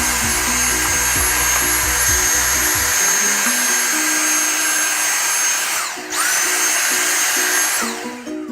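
Small high-speed electric motor tool switched on twice: it spins up with a high whine and a loud rushing noise, runs about six seconds, winds down briefly, then runs again for about two seconds before winding down. Background music plays underneath.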